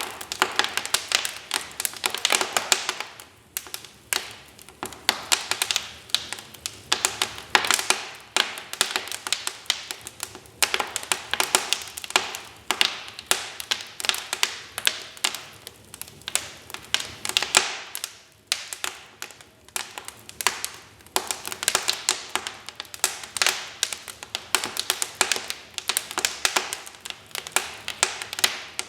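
Wood fire crackling in a fireplace: dense, irregular pops and snaps that come in clusters, with a few brief lulls.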